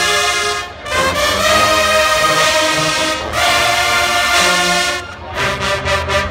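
HBCU-style marching band's brass section playing loud, held chords, with brief breaks about a second in and about three seconds in. Near the end it switches to short, punchy stabs, several a second.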